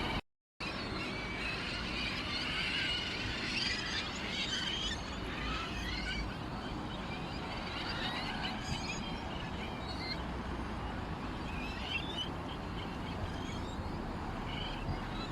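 Small birds chirping and twittering in a continuous overlapping chorus over a steady low background rumble. The sound cuts out completely for a moment just after the start.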